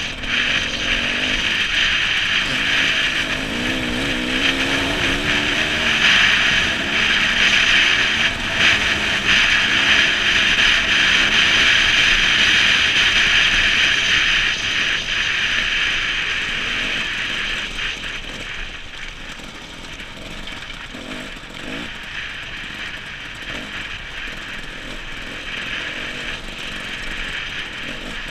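Enduro motorcycle engine running and revving up and down over rough ground, heard close up with a steady hiss over it; the engine gets quieter about two-thirds of the way through.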